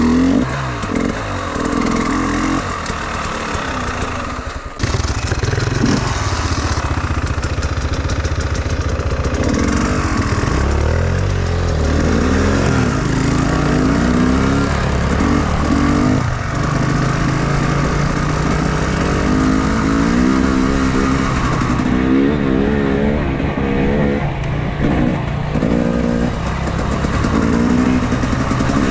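Enduro motorcycle engine being ridden off-road, the revs rising and falling over and over as the throttle is worked. The sound drops out briefly about five seconds in, then comes back louder.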